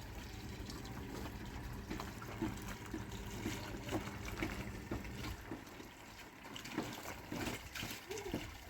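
Water trickling and splashing, with a few light knocks.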